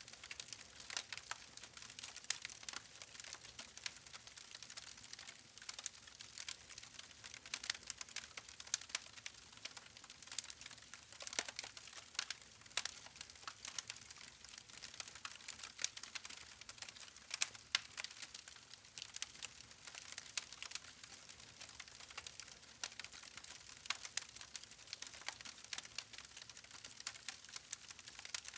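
Wood fire crackling: a steady hiss of burning logs with many small irregular pops and snaps.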